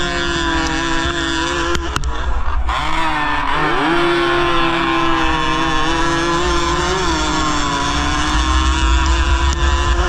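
Yamaha RX 115's two-stroke single-cylinder engine at high revs under race load, heard on board with wind buffeting the microphone. The pitch drops briefly about two seconds in, climbs sharply again near four seconds, then eases down slightly around seven seconds.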